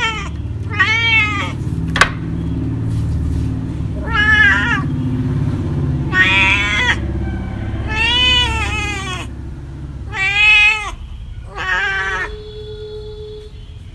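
Domestic cat meowing repeatedly: about six separate meows, each under a second, rising and then falling in pitch, a second or two apart. A single sharp click comes about two seconds in.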